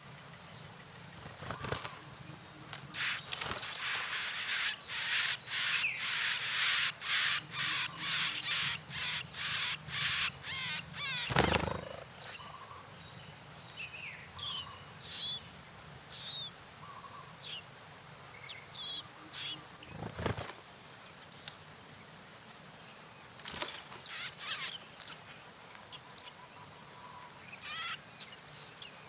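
A cricket trilling steadily at a high pitch in a fast, even pulse. A quick run of clicks comes in the first third, short high chirps are scattered through, and two dull knocks fall about eleven and twenty seconds in, the first the loudest.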